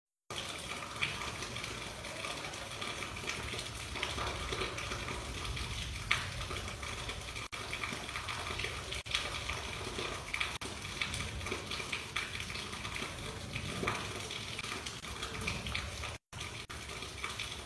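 Rain falling: a steady hiss of rain with scattered sharper drop impacts. The sound cuts out briefly near the end.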